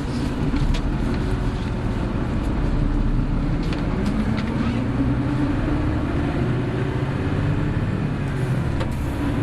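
Running sound of a Hino Blue Ribbon City hybrid bus under way. The engine note rises as the bus accelerates over a few seconds, then holds steady, over road noise with a few light clicks and rattles.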